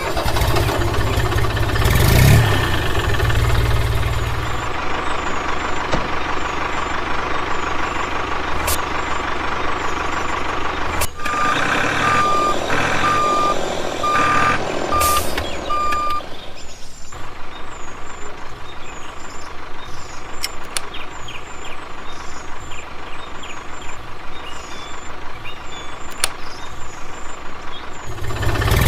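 A small motor runs steadily with a fast rattle, with a heavier low rumble in the first few seconds. Partway through comes a series of about six evenly spaced electronic reversing beeps, about one a second.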